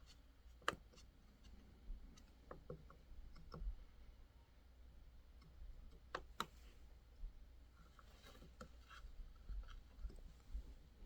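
Carving knife cutting into white birch: faint, scattered clicks of single cuts, with a short run of scraping cuts near the end.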